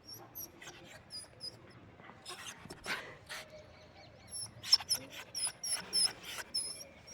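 German shepherd making a series of short, sharp sounds, most of them in the second half, amid a run of high, short squeaking chirps.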